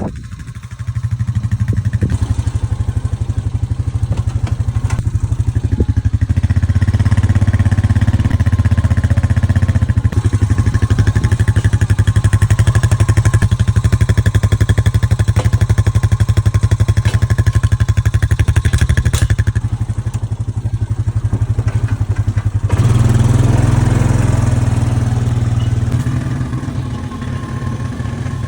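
Gasoline vehicle engine running steadily under load, towing a hay bale unroller. It picks up about a second in, rises for a few seconds, eases off around two-thirds through and picks up again.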